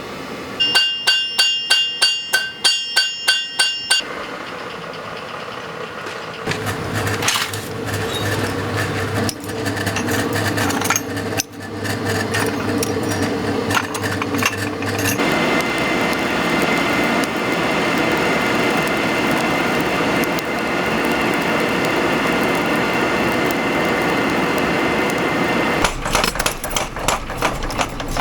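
Blacksmith's hammer striking hot steel on an anvil, about three ringing blows a second for some three seconds. Then a steady machine hum and noisy mechanical running, with quicker, duller knocking near the end.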